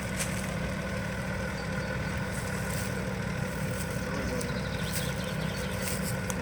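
Off-road 4x4's engine running steadily at low revs: an even, unchanging rumble with no revving.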